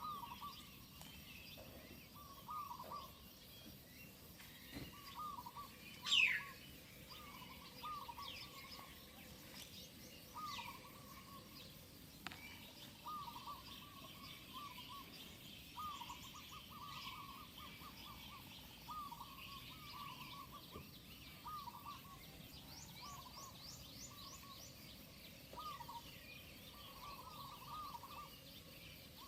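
Birds calling: a short, fairly low call repeated every second or two, scattered higher chirps, and one loud call sweeping downward about six seconds in.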